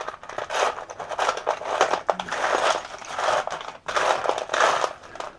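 Hands rummaging through a container of small parts and crimp connectors: irregular rattling, scraping and crinkling, in a string of short clatters.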